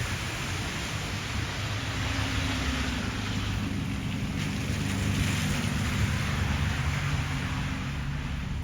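Street traffic on a wet, slushy road: the steady hiss of tyres through slush with the low hum of a vehicle engine running nearby.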